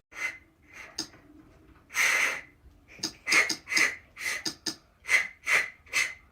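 A dog breathing hard in quick, noisy puffs, about two to three a second, after a few scattered huffs at the start.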